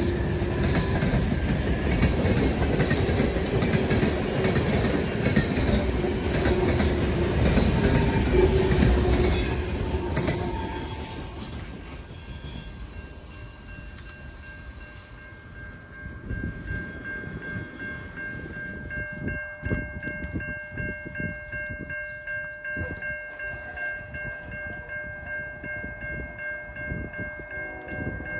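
A train passing close by, its wheels clattering and squealing on the rails, loud for about ten seconds and then fading away. In the second half, a few steady high ringing tones sound over faint rhythmic ticking.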